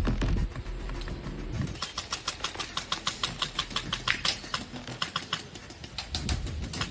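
Airsoft guns firing in rapid bursts: a fast run of sharp clicks, about eight to ten a second, starting a couple of seconds in and fading out near the end.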